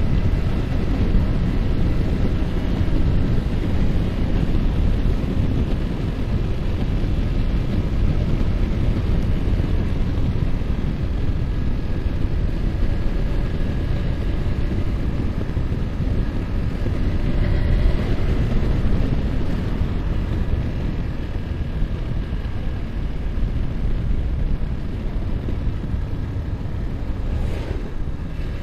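Yamaha R15's single-cylinder engine running steadily at cruising speed, mixed with heavy wind buffeting on the microphone. There is a brief knock near the end.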